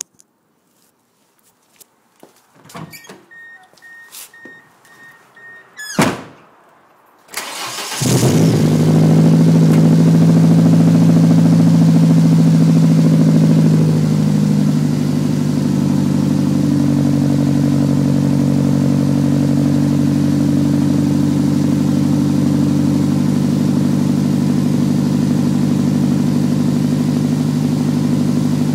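A 1994 Ford Escort LX's 1.9-litre four-cylinder engine, breathing through an aftermarket 3a Racing muffler fitted right after the catalytic converter, is cranked and catches about seven seconds in, then idles with a loud exhaust. The idle runs high at first and drops to a lower steady idle about six seconds later. Before the start, a few clicks and a beeping chime are heard.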